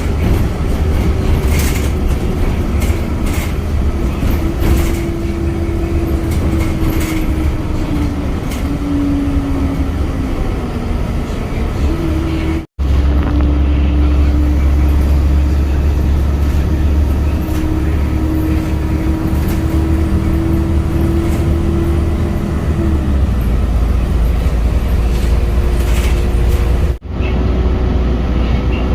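A vehicle engine drones steadily over a heavy low rumble, its pitch drifting slowly up and down. The sound breaks off abruptly twice.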